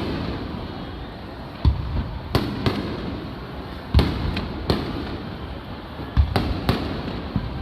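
Aerial fireworks shells bursting: a string of about nine sharp bangs at irregular spacing, some coming two or three in quick succession, over a continuous low rumble from the display.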